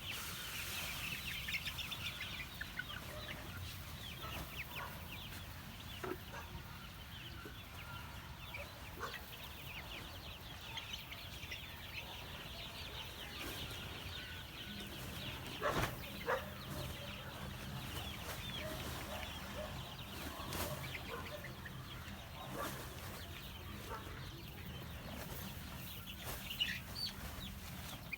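A flock of month-old chicks peeping and clucking continuously, a dense chatter of many short high calls, with two sharp knocks about halfway through.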